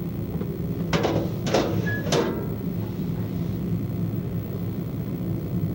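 Train running with a steady low rumble, heard from on board, with three sharp clacks about a second in, half a second apart, as the wheels cross the points of the station yard.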